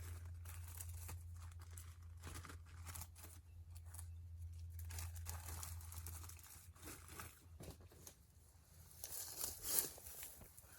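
Wood fire crackling, with irregular small pops and snaps and a louder cluster of crackles near the end.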